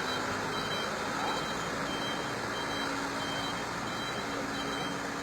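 Mitsubishi Canter 4x4 truck's engine running steadily, with a thin, steady high-pitched tone above it.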